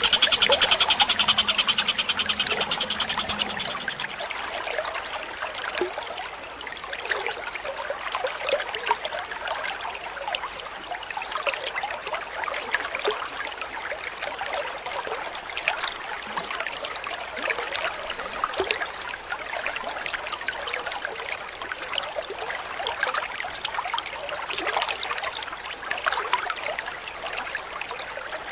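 Water trickling steadily, with small scattered splashes. For the first four seconds a loud, fast, buzzing pulsed bird call sits on top, then cuts off.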